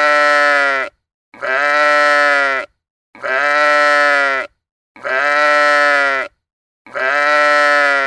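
A sheep bleating: one long bleat, steady in pitch and dropping slightly at the end, repeated identically about five times with silent gaps between.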